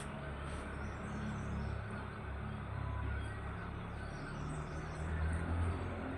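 Steady low rumble of a motor vehicle engine, with an even hiss over it.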